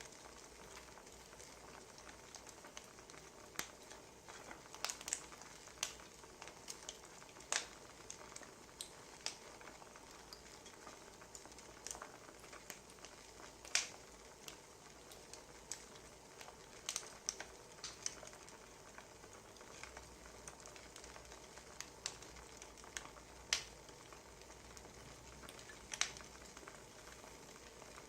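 Faint wood fire crackling: irregular sharp pops and snaps over a low, steady hiss.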